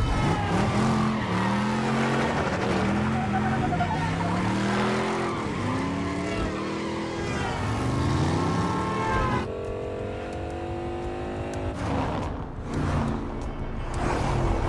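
Muscle car engine revving up and down again and again, with tyres squealing as the car slides and swings through traffic. About nine seconds in it settles into a steadier note that climbs as the car accelerates, and near the end several quick rushes of noise come from cars passing close by.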